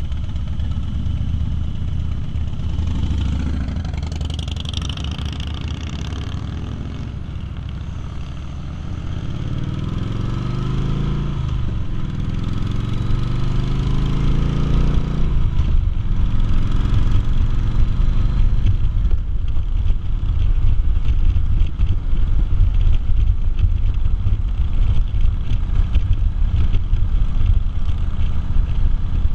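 Harley-Davidson V-twin motorcycle engine idling, then pulling away: the engine note rises again and again as it climbs through the gears, then settles into a steady, louder run at road speed with wind rushing over the microphone.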